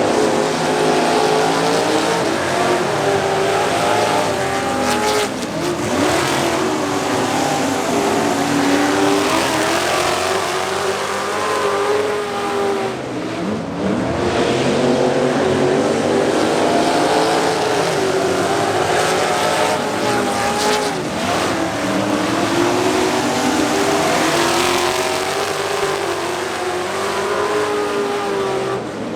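Several racing trucks' engines running hard as the pack laps the track, pitch rising and falling again and again as they pass and accelerate, with some tire squeal.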